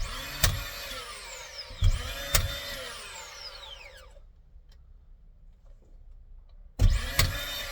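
Cordless DeWalt nail gun driving nails into OSB ceiling boards: sharp shots over a motor whir that falls in pitch as it winds down. A second burst of motor and shots comes near the end.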